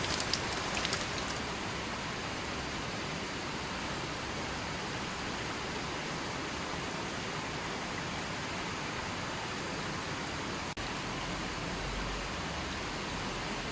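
Steady rain as an even hiss. In the first second and a half single drops patter sharply, then it settles into a smooth, duller rush, with a momentary dip about eleven seconds in.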